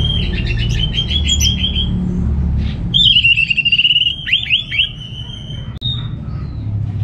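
Orange-headed thrush singing: a fast run of repeated whistled notes, then after a short pause a wavering whistled phrase that ends in a few sharp falling notes, over a steady low hum.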